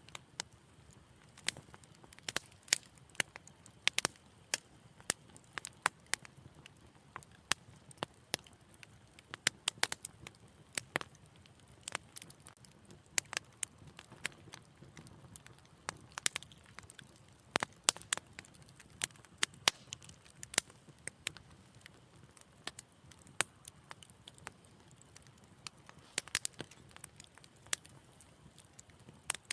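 Wood fire in a fireplace crackling: irregular sharp pops and snaps, a few a second at most, over a soft low rumble of the flames.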